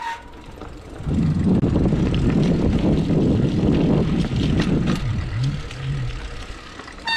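Wind buffeting the action camera's microphone and the mountain bike's tyres rolling over the dirt trail, with scattered clicks and rattles from the bike. It swells about a second in and eases off after about four seconds.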